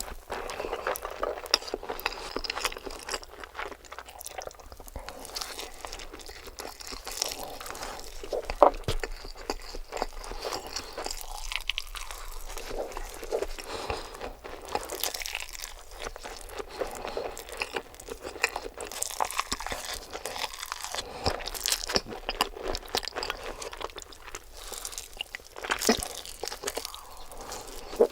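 Close-miked eating sounds: chewing and biting, with many short crunchy clicks and crackles.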